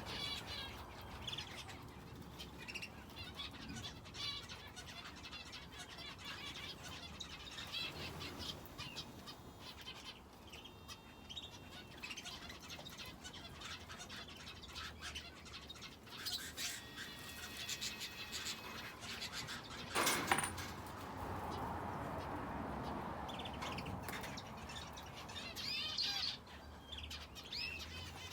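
Small aviary finches and a canary chirping and twittering, many short high calls overlapping throughout. About two-thirds of the way through there is one brief, louder sound that spans all pitches: a knock or rustle.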